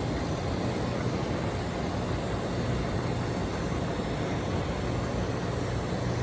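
Swimming-pool heat pump running: a steady low hum from its compressor under an even layer of noise, with no change in pitch or level.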